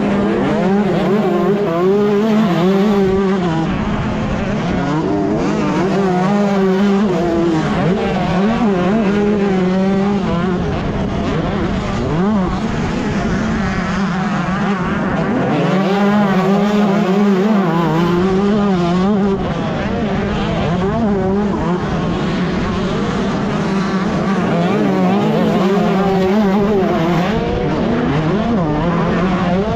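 125cc two-stroke motocross bike engine racing, its pitch rising and falling over and over as the throttle is opened and shut through the turns and jumps.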